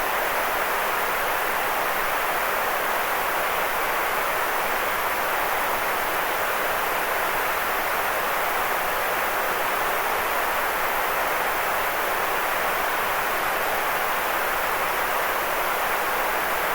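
Steady white noise played as a sleep aid: an even, unbroken hiss that never changes in level, with most of its energy in the middle range and little deep bass.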